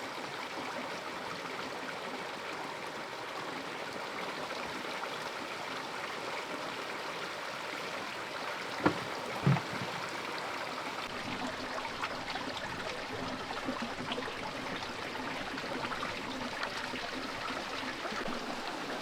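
Steady running water, a stream trickling and gurgling. Two brief knocks come about halfway through, half a second apart.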